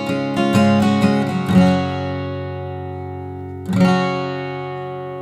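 Fender Redondo Player acoustic guitar: a quick run of picked chord notes in the first second and a half, then a single strummed chord near four seconds in, left ringing out.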